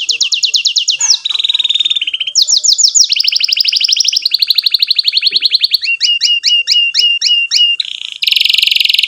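Domestic canary singing a fast chain of trills, each a rapid run of one high note repeated many times, switching to a new trill every second or two. About six seconds in it changes to a slower series of upswept chirps, about four a second, before breaking into another fast trill.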